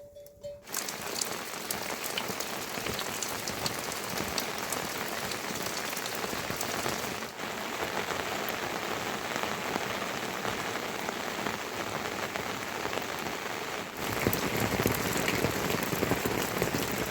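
Steady rain falling, starting under a second in and growing louder about two-thirds of the way through.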